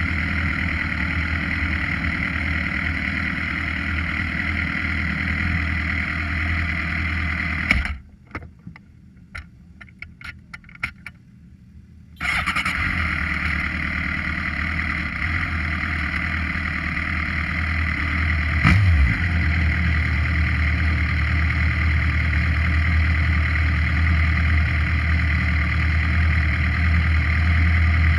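Suzuki GSX-R motorcycle heard from its onboard camera, a steady unbroken engine and running noise. About eight seconds in, the sound drops away abruptly for roughly four seconds, leaving only a few faint clicks, then comes back just as suddenly. A single thump follows several seconds later.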